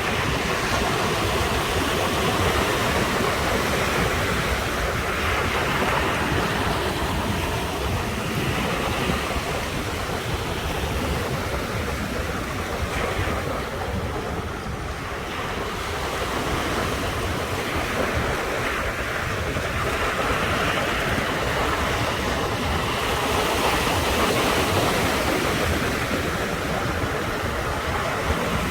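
Ocean surf washing in continuously, swelling and easing as waves break, with a lull about halfway through before it builds again.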